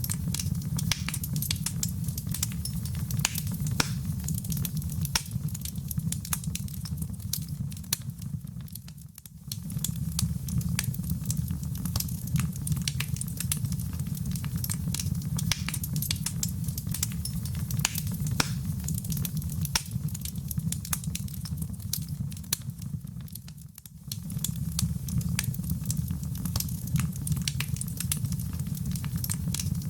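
Fireplace fire crackling and popping with dense, irregular snaps over a steady low rumble. The sound briefly dips twice.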